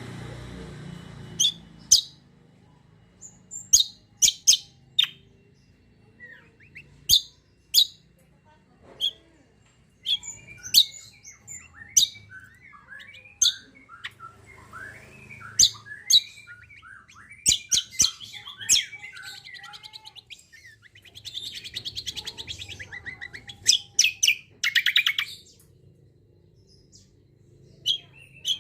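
Greater green leafbird (cucak kombo) singing: loud, sharp whistled calls at irregular intervals, and from about ten seconds in a long run of quick, varied chattering warble. A faint low hum runs underneath.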